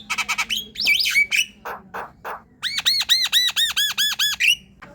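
Javan myna singing: a fast burst of rattling clicks and harsh squawky notes, then a run of about ten quick arched whistled notes, each rising and falling.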